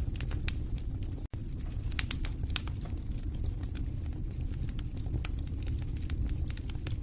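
Wood fire burning in a fireplace: frequent, irregular sharp crackles and pops over a low steady rumble of flame. The sound cuts out for an instant a little over a second in.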